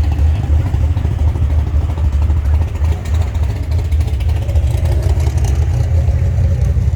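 A car engine idling with a steady, loud low rumble.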